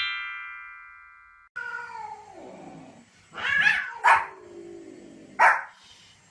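A rising chime-like sweep rings out and cuts off about a second and a half in; then a dog gives a long whine falling in pitch and barks three times.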